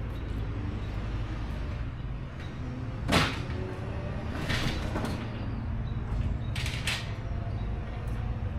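Creaking and scraping of old wood and nails being worked loose during a garage door tear-out, with one sharp crack about three seconds in and a few shorter scrapes after it.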